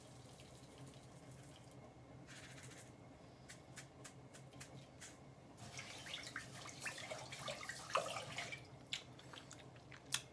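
Faint small clicks, then a spell of wet trickling and splashing from about six to nine seconds in, as salt is tipped into a pot of rice and water.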